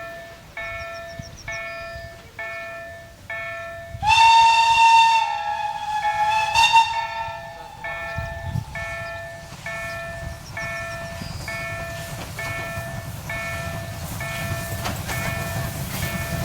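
Level-crossing warning bell dinging evenly about twice a second. About four seconds in, the TKt48 steam locomotive blows its steam whistle, one long loud blast that swells again partway through and lasts about four seconds; afterwards the low rumble of the approaching train grows under the bell.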